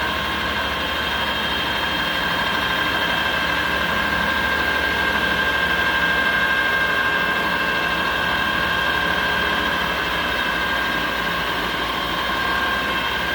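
Miltronics ML15 CNC lathe spindle running under constant surface speed control during a cut, a mechanical whine of several steady tones over a low hum; the spindle is set to speed up as the tool moves in toward the centre.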